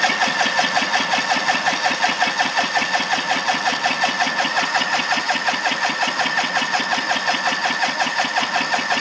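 Electric starter cranking the John Deere LX188's Kawasaki FD501V liquid-cooled V-twin without it firing, a steady starter whine over an even rhythmic chug of the pistons. The engine is being turned over for a cold compression test, and the oil filter side cylinder reads a healthy 220 psi.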